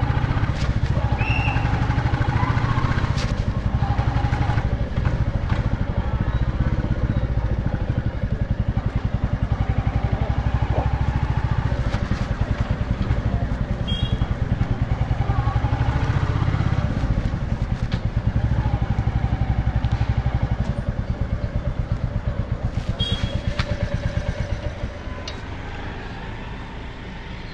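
Royal Enfield Bullet single-cylinder motorcycle engine running on the move, a steady rapid exhaust beat. About two seconds before the end it eases off and gets quieter.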